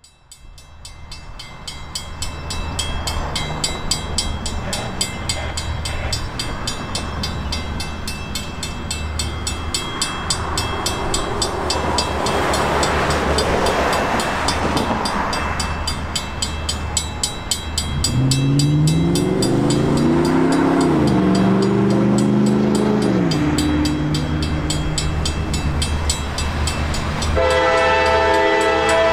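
Freight train diesel locomotives running past with a steady low rumble. About two-thirds of the way through, engine tones slide up and down. Near the end the locomotive's horn sounds a steady chord.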